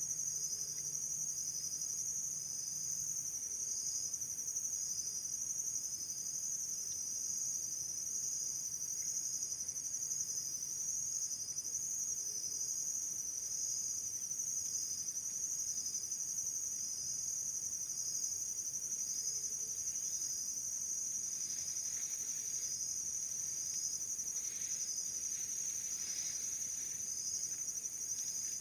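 Insects, crickets or similar, trilling steadily: a continuous high-pitched trill with a second, pulsed chirp repeating about once a second.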